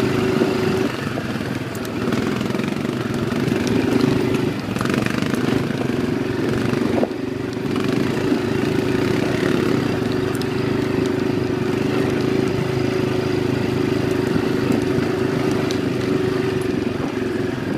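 ATV engine running steadily during a ride, with a brief drop in level about seven seconds in.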